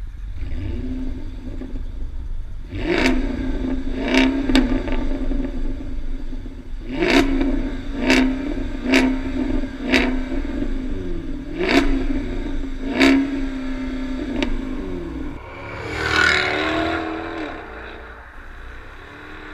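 2012 Jaguar XKR's 5.0-litre supercharged V8 with Performance Active Exhaust idling, then revved in about ten quick throttle blips, each with a sharp crack at its start. About fifteen seconds in the car pulls away under acceleration and fades into the distance.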